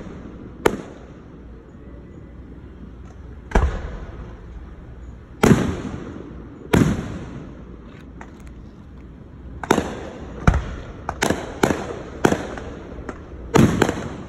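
Aerial fireworks bursting: a few separate bangs a second or more apart, then a quicker run of bangs from about ten seconds in, each with a short echoing tail.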